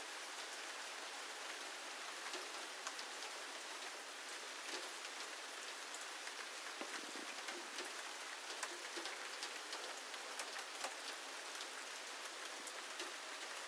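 Steady rain falling, a constant hiss dotted with many small sharp drop ticks.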